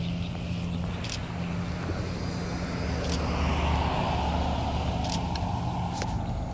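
Road traffic: a vehicle passes by, its tyre and road noise swelling about three seconds in and falling in pitch as it goes, over a steady low hum.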